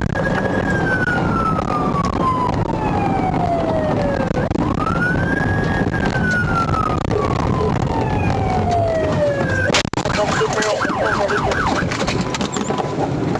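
Police car siren in wail mode, rising quickly and then sliding slowly down, twice. About ten seconds in, after a click, it switches to a fast yelp warble. Engine and road noise of the pursuing car run underneath.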